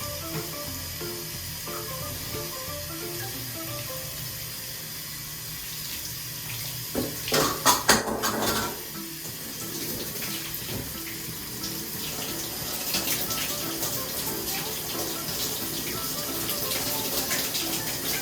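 Water running steadily while a cat is washed, over background music. A louder, short burst with some pitch in it comes about seven seconds in and lasts under two seconds.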